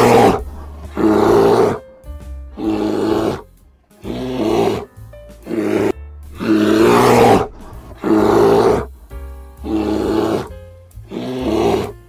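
A bear growling in a string of loud calls, each about a second long with short gaps between them, over background music.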